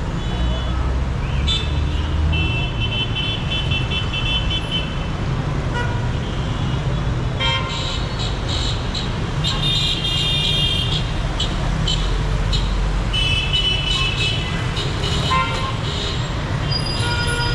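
Dense city street traffic: engines running, with car horns honking again and again, several long honks and many short toots over one another.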